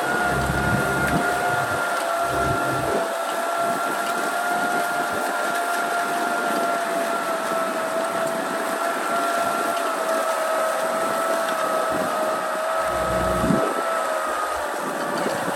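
Kubota M6040 SU tractor's diesel engine running steadily, with a high whine over it. Low rumbles come near the start and again near the end.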